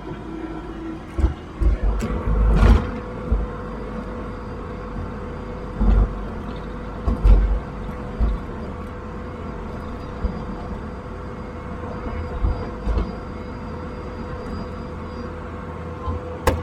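Diesel equipment engine running at a steady speed, with several heavy metal thumps and clanks, the loudest about two to three seconds in and again around six and seven seconds in.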